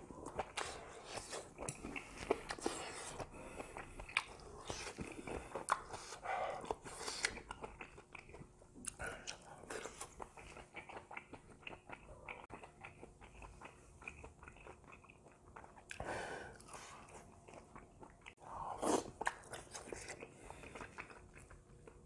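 Close-miked chewing and wet mouth smacking of a person eating grilled beef offal, with a quick run of small clicks and squelches and a few louder smacks and breaths now and then.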